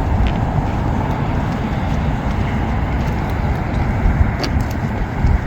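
Steady low outdoor rumble with no clear pitch, the kind made by city traffic and wind on the microphone. A faint tick comes near the end.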